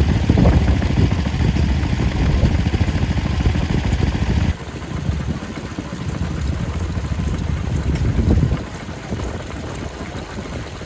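Vintage stationary engines running steadily with a rapid low firing rhythm. The sound switches abruptly to a different, quieter engine about four and a half seconds in, and again about eight and a half seconds in.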